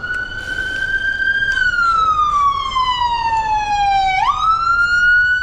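Emergency vehicle siren in a wail: it sweeps up quickly, holds, glides slowly down, then sweeps up again about four seconds in, getting louder as it approaches. Low road noise runs underneath.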